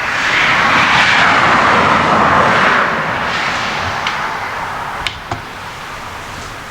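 A car driving past: its tyre and engine noise swells as it comes closer, peaks for about three seconds, then slowly fades away.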